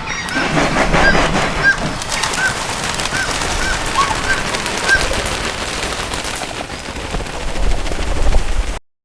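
A bird calling over and over in short, arched chirps over a loud noisy background with scattered clicks, cutting off suddenly near the end.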